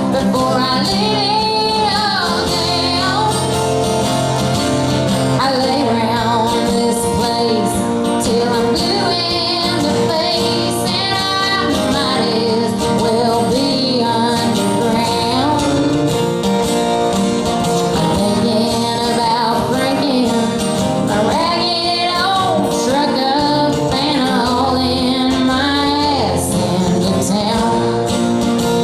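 Live country music: a woman singing over acoustic guitar and band accompaniment.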